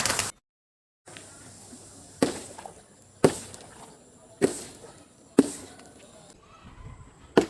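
A run of sharp smashing cracks, about six, roughly a second apart, each dying away quickly: things being broken or crushed one after another. The sound cuts out completely for a moment near the start.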